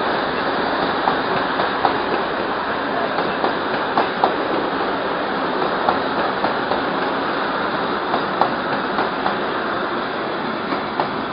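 Passenger train running along the track: a steady rush of wheel and rail noise with irregular sharp clacks of the wheels over the rail joints.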